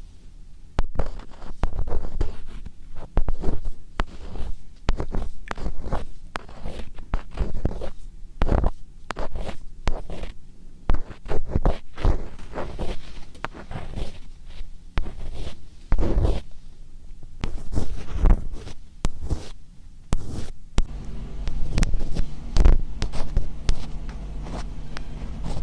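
Close-miked ASMR scratching ('kari-kari'): quick, irregular scratching strokes against the microphone, with a steady low hum joining near the end.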